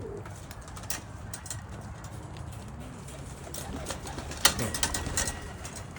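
Domestic pigeons cooing in a loft, a low steady murmur of calls. A flurry of sharp clicks and rustles comes about four and a half seconds in.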